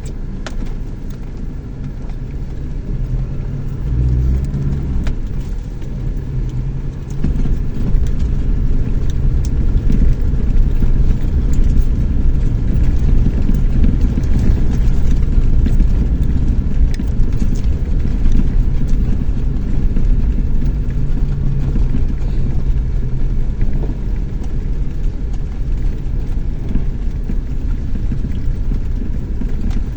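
Chevrolet S10 Tornado pickup on the move: a steady low engine and road rumble, which gets louder about seven seconds in.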